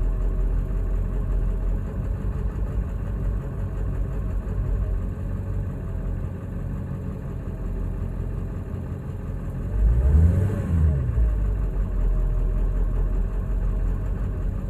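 Ford 7.3L Power Stroke V8 turbo-diesel idling rough, with one brief rev that rises and falls back to idle about ten seconds in. The owner has not found the cause: a new ICP sensor and a swapped IDM have not changed it.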